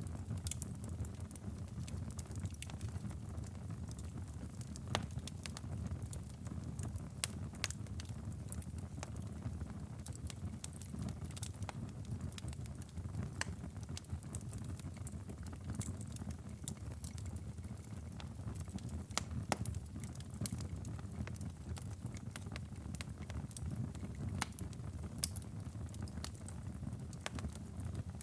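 Wood fire crackling in a fireplace: scattered sharp pops and snaps at irregular moments over a steady low rumble.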